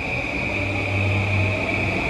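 E235-series electric train's inverter and traction motors whining as it starts to move at low speed, with a steady high tone over several lower tones that rise slowly in pitch.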